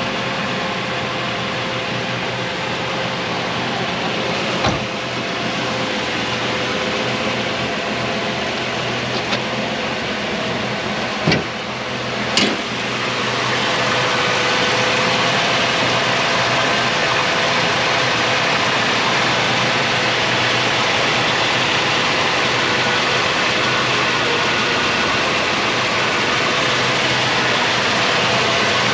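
Classic car engine idling steadily, with three sharp knocks along the way; about 13 seconds in the sound steps up a little and holds.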